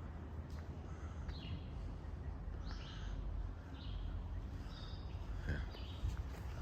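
Songbirds singing in short chirping phrases, about one a second, over a steady low rumble.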